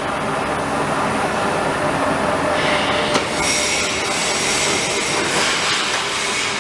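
TDF duct-flange roll-forming machine running, its rollers forming galvanised sheet-metal strip with a steady metallic grinding and squeal. A sharp click comes about three seconds in.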